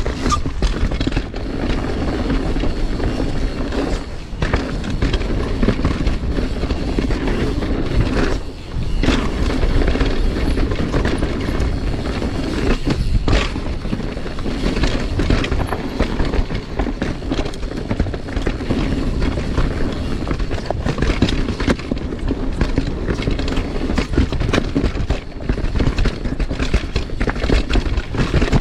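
Mountain bike riding fast down a dirt trail: a steady rough rumble of tyres and rolling, with frequent sharp knocks and rattles from the bike over bumps.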